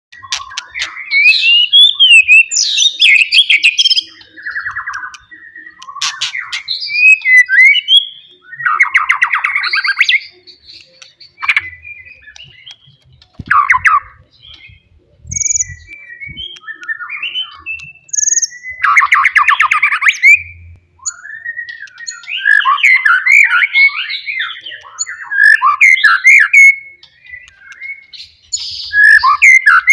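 White-rumped shama singing loudly: a run of varied phrases of gliding whistles and chattering notes with short pauses between them, including two fast rattling phrases about a third and two thirds of the way through.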